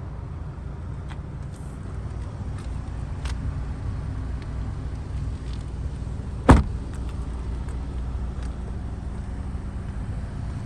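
A car door on a 2015 Audi Q3 shutting once with a single sharp thud about six and a half seconds in. A steady low rumble runs under it, with a few faint clicks.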